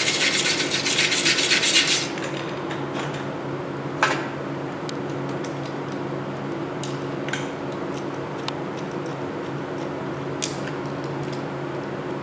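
Bare aluminum being scrubbed clean by hand in quick rasping strokes, as prep before welding. The scrubbing stops about two seconds in, leaving a steady low hum with a few light clicks and taps.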